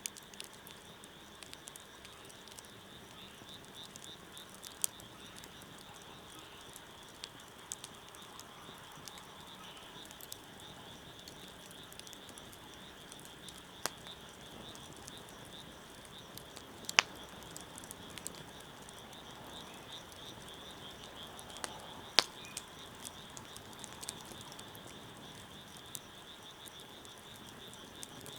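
Wood fire crackling, with scattered sharp pops and two louder snaps, one just past the middle and one about three quarters of the way through. A steady high-pitched chirring chorus runs behind it.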